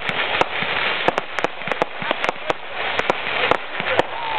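Fireworks display: an irregular string of sharp bangs, about a dozen, over a continuous crackling hiss.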